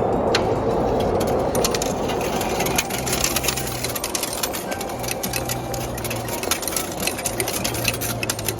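Dollar coins pouring one after another out of a ticket vending machine into its metal change bin, a long rapid run of clinks over the steady sound of the machine's coin dispenser.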